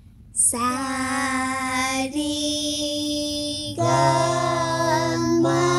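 A girl singing long held notes as vocal practice (riyaz). She sings four sustained notes in a row, each held steady for about one and a half seconds before stepping to the next pitch, starting about half a second in.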